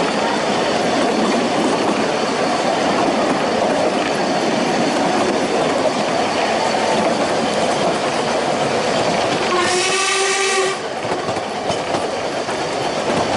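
Ffestiniog Railway narrow-gauge train running with a steady loud rumble from wheels and carriages. About ten seconds in, the locomotive gives one short whistle blast lasting about a second.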